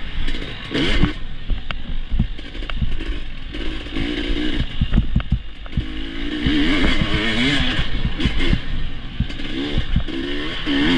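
Enduro dirt bike engine being ridden, its pitch rising and falling with the throttle, with repeated knocks and clatter from the bike over rough ground.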